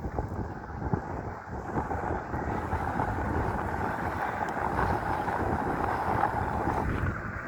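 Wind rushing over the microphone along with the rolling noise of a dual-motor electric bike being ridden; the noise is steady and eases slightly near the end.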